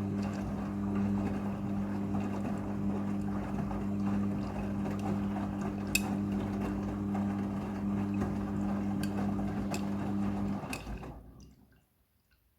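Midea front-loading washing machine running with a steady electric hum over rushing water, with a few light clicks. It stops about ten and a half seconds in, and the water sound dies away within a second.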